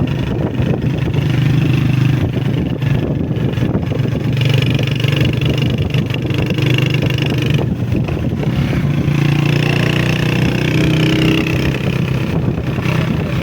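Honda CG125 motorcycle's single-cylinder four-stroke engine running steadily while the bike is ridden.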